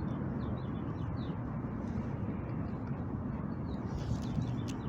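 City park ambience: a steady rumble of distant traffic, with small birds chirping briefly and repeatedly over it and a single sharp click near the end.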